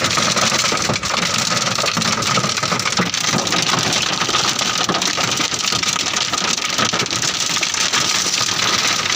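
Hail and heavy rain pelting a parked car's body, heard from inside the cabin: a dense, steady clatter of countless small impacts.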